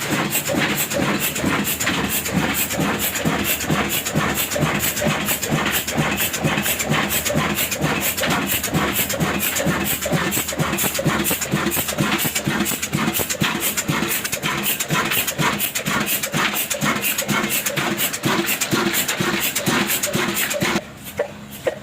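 Ruston Hornsby stationary diesel engine running with a steady, even chugging beat.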